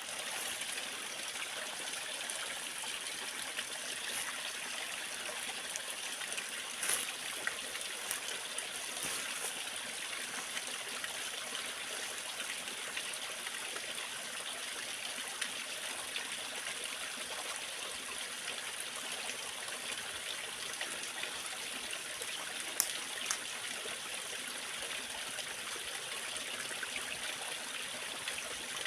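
Waterfall: water falling and splashing in a steady rushing hiss, with a few faint splash ticks now and then.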